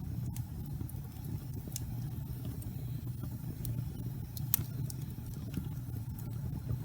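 Wood fire burning in a fireplace: a steady low rumble with scattered crackles and pops, the sharpest about four and a half seconds in.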